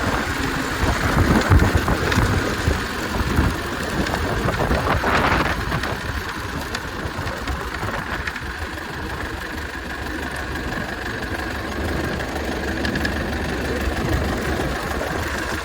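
Hupmobile's roughly 100-year-old engine running steadily, with a low rumble and road or wind noise.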